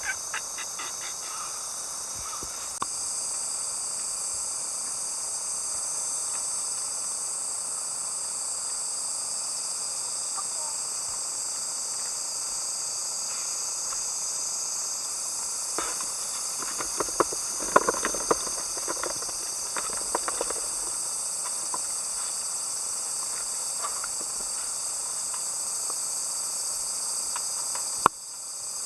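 Chorus of summer insects making a steady high-pitched drone, with a few clicks and rustles of handling or footsteps about halfway through.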